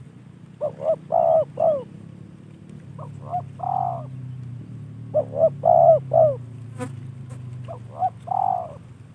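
Spotted dove (tekukur) cooing in four phrases of several quick coos each. A low steady hum runs underneath.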